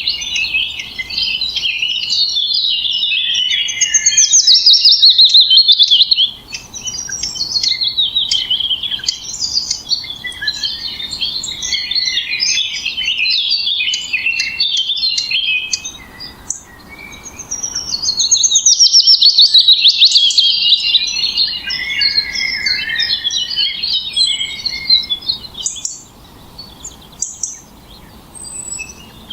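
Songbirds singing and chirping in a dense, fast chorus of high trills and chirps, loudest in two long trilling phrases, one about four seconds in and one past the middle, and thinning to scattered chirps near the end.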